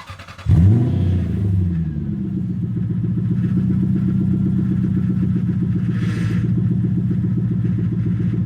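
Lexus SC400's 1UZ-FE V8 cold start through a resonator and muffler delete: a brief crank, the engine catching about half a second in with a flare of revs, then settling into a loud, steady high idle. A power steering pump whines above it, which the owner calls screaming, a common pump failure on 1UZ engines.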